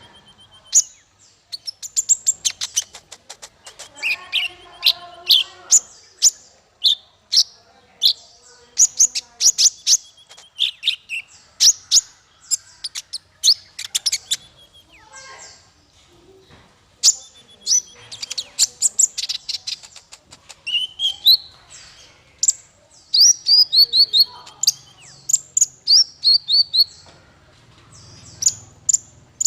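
Songbird singing continuously: fast runs of sharp chirps, rapid trills and repeated whistled phrases that glide down in pitch, all high and bright.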